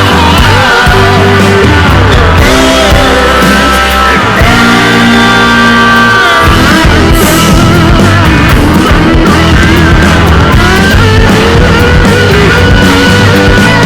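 Rock music: a band with guitar and bass playing loud and steady, with sung vocal lines.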